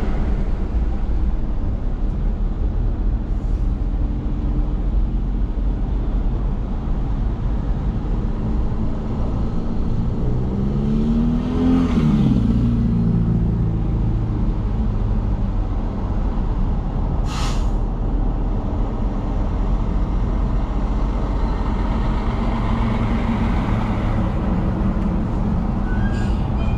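Steady road noise and engine of a car driving on a wet road. About eleven seconds in the engine's pitch rises and then falls, and a single sharp click comes near seventeen seconds.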